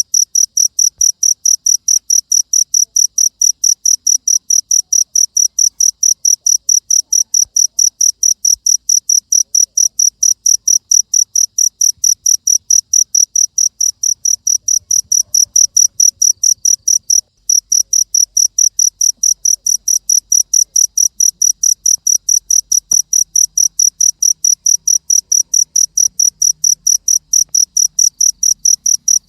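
Cricket chirping in a steady, rapid train of evenly spaced high-pitched pulses, dropping out for a moment about seventeen seconds in.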